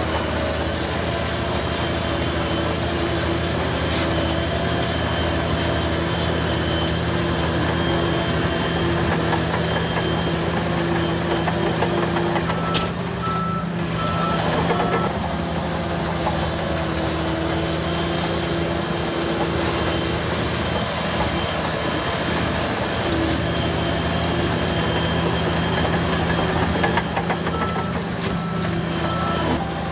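Diesel engines of heavy earthmoving machines running steadily, with a reversing alarm beeping three times about halfway through and three times again near the end.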